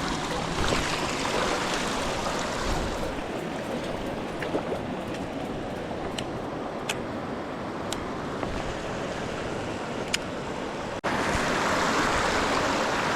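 Steady rushing of flowing stream water, with a few faint clicks. It cuts out for an instant about eleven seconds in and comes back slightly louder.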